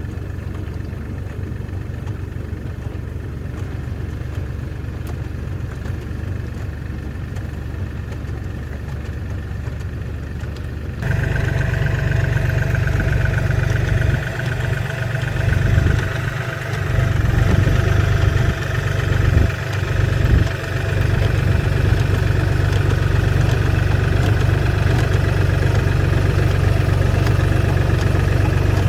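An engine running steadily. It becomes abruptly louder and fuller about eleven seconds in, dips briefly a few times, then settles back to a steady run.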